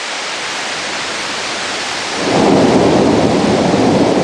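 Steady rush of heavy rain and pour-off waterfalls streaming down the canyon walls. About two seconds in, a much louder, rough rumbling noise comes in and holds on.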